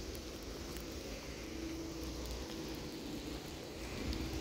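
Steady rain falling in woodland, an even hiss over a low rumble, with a few faint ticks near the end.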